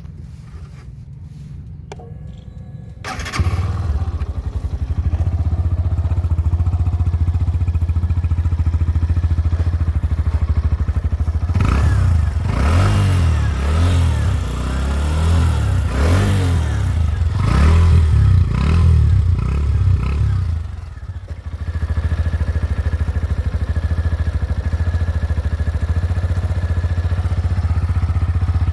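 Hero Glamour X 125 cc single-cylinder motorcycle engine starting about three seconds in and idling steadily, then revved in a series of blips before settling back to idle.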